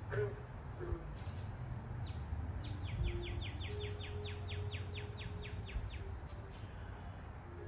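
A songbird singing: a string of high, downward-slurred whistled notes that starts slowly and speeds up into a quick run of about five notes a second, then stops. A steady low rumble runs underneath.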